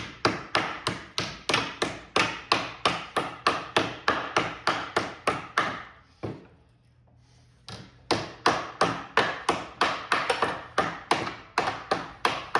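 Hammer blows on sheet metal clamped over a wood template, bending the metal into a crease. The steady, sharp strikes come about three or four a second, pause for about a second and a half near the middle, then resume.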